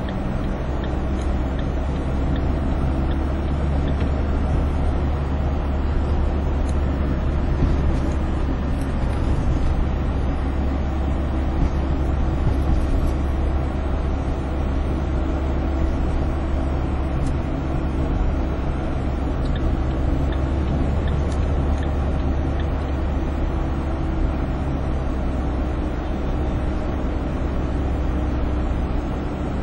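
Van driving on a highway, heard from inside the cabin: a steady low rumble of engine and road noise with an even engine hum.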